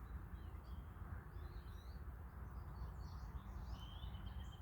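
Small birds chirping with short, quick calls, and a long thin steady note starting near the end, over a steady low rumble.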